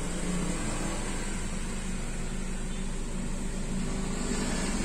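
Mazda CX-3 engine idling in Park, heard from inside the cabin: a steady, even hum with no knocks or rattles.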